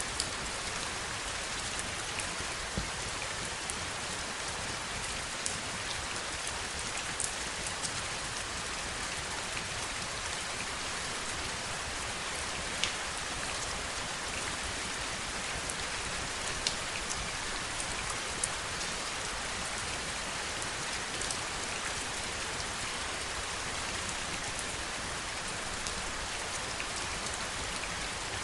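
Steady heavy rain, a dense even hiss with scattered individual drop hits ticking out sharper every second or two.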